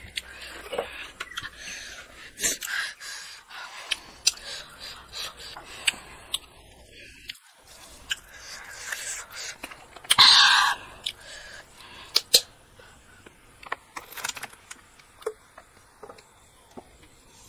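Close-up mouth sounds of a person eating rice and egg curry by hand: chewing with wet smacks and scattered small clicks, and a short, louder breathy rush about ten seconds in.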